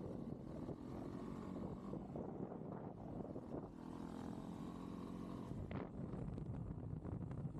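Motorcycle engine running on the move, with wind buffeting the microphone; the engine's pitch comes through most clearly in the middle. A single short click sounds about three-quarters of the way through.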